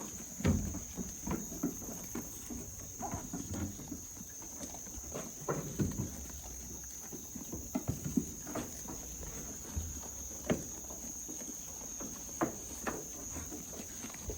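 Goats jostling and feeding over cut grass: scattered irregular hoof knocks and steps with rustling of the grass.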